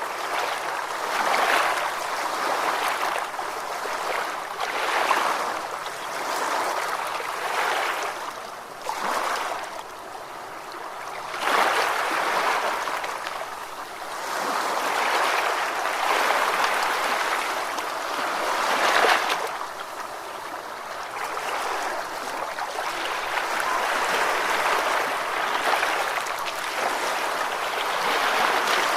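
Ocean surf washing in, a continuous hiss of water that swells and eases every few seconds, with a quieter lull about ten seconds in before a wave surges back.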